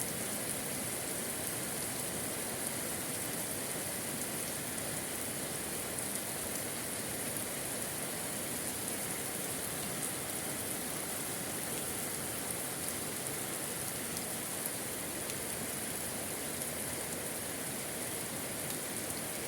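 Steady moderate rain falling on surfaces, an even hiss with faint scattered drop ticks.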